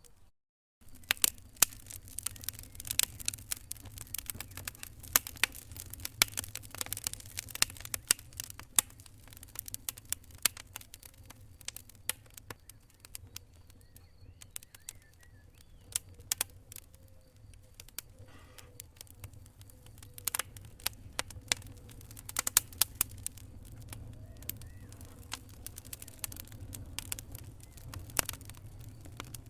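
Wood fire crackling in a fireplace: irregular sharp pops and snaps over a low rumble of burning. The sound drops out briefly less than a second in.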